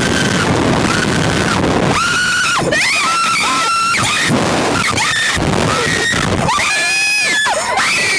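Two riders screaming on a slingshot thrill ride, in repeated high-pitched screams that break off and start again every second or so. Heavy wind rushes over the microphone as the capsule is flung through the air.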